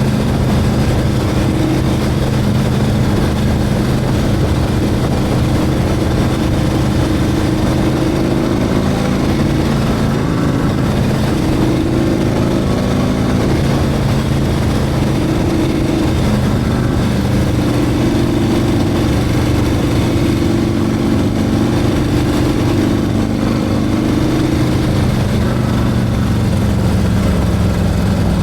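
Harley-Davidson Milwaukee-Eight 114 V-twin, fitted with a Screaming Eagle 447 torque cam, running steadily with its pitch shifting slightly now and then.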